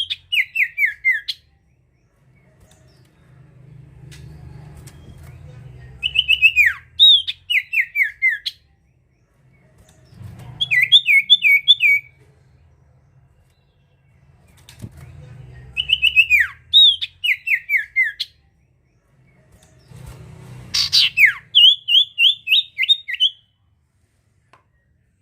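Common iora singing: five bouts of song a few seconds apart, each a sharp downward-slurred whistle followed by a quick run of about six short repeated notes. A faint low rumble sits under the gaps.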